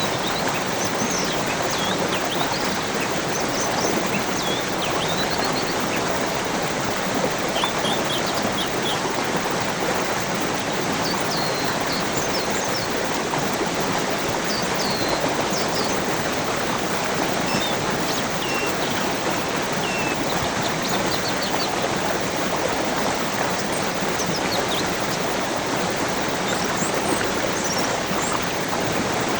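Steady rushing of flowing water from a stream, with birds chirping briefly and irregularly over it.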